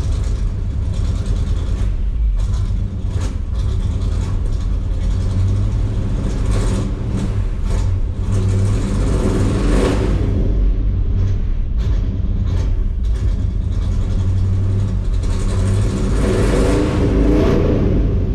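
1972 Chevy C20 pickup's V8 engine running steadily on fresh oil, with a deep, even rumble. It swells louder twice, about halfway through and near the end, and a few light clicks sound in the first half.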